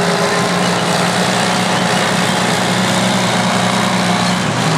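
Heavy diesel earthmoving machinery running steadily, with a strong low engine note holding one pitch.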